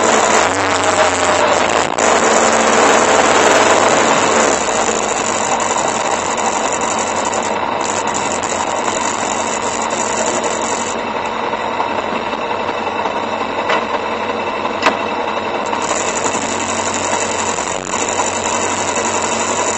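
Motorcycle engine running at low speed with wind noise over the first few seconds, then idling steadily. Two light clicks come about a second apart in the second half.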